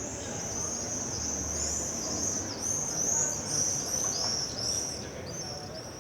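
Small birds chirping: a rapid run of short, high, arched chirps, busiest in the middle. A low, steady background rumble lies underneath.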